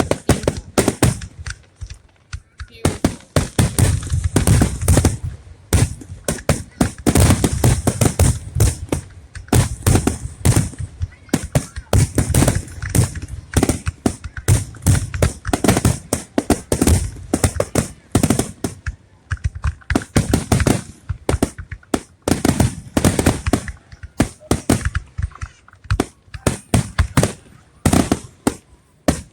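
Fireworks going off in rapid succession: a dense run of sharp bangs and crackles mixed with deeper booms, with only a brief lull about two seconds in.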